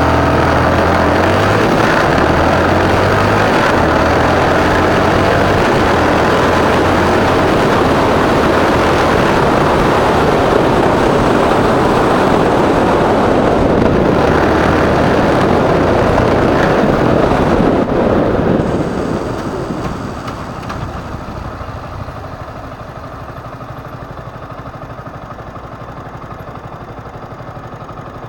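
Motorcycle riding under way, the engine running amid loud wind and road noise, then dropping to a much quieter, steady idle about two-thirds of the way through as the bike slows.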